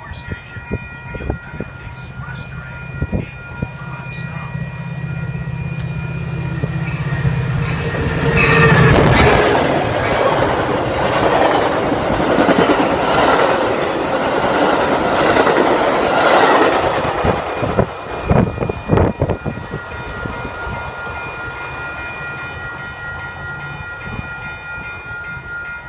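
A Metra UP-NW express train passing at speed without stopping. A low engine drone builds over the first eight seconds, then about eight seconds of loud rushing and rail clatter as the cars go by. A few sharp wheel clacks follow as the last car passes, and the sound then settles to a lower rumble.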